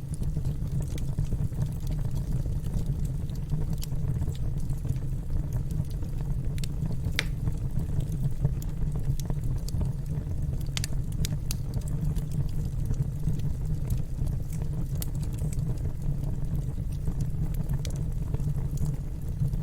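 Wood fire crackling in a fireplace: a steady low rumble with scattered sharp pops, one stronger snap about seven seconds in and a few more near eleven seconds.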